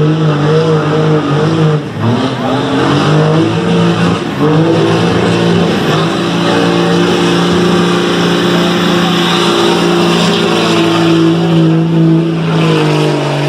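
Diesel pickup truck engine at full throttle pulling a weighted sled down a truck-pull track, its pitch wavering and dipping briefly twice early on, then holding a steady high drone.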